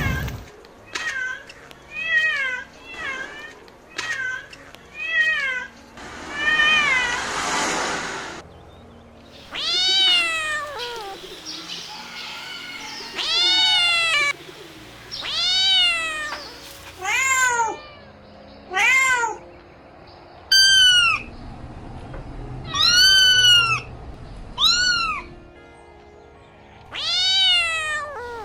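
Kittens meowing over and over: a string of about a dozen short, high-pitched mews, each rising and then falling in pitch, with one longer, hoarser call early on.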